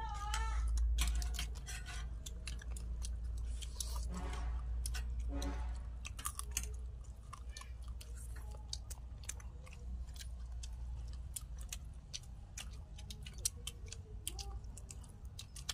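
Close-up chewing and biting of chicken pieces eaten by hand, with many short sharp clicks and smacks, over a steady low rumble.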